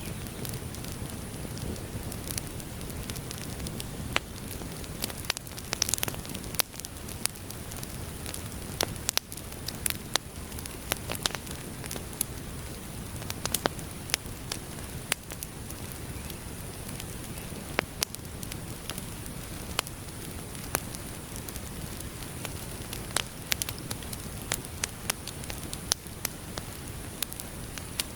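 Campfire burning: a steady low rush from the flames, with frequent sharp crackles and pops at irregular intervals, over a steady high-pitched hiss.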